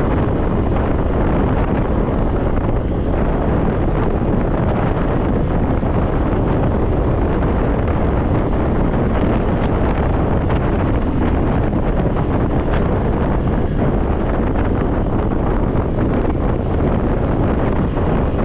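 Steady wind rush buffeting the microphone of a scooter rider at speed, with the scooter's running noise beneath it.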